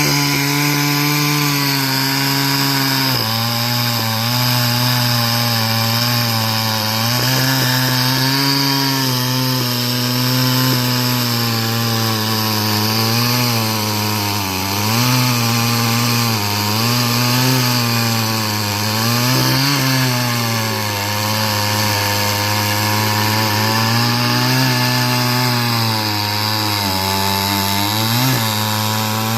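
Sawmill saw running and cutting timber, its motor holding a steady hum whose pitch sags and recovers every few seconds as the load on the blade changes.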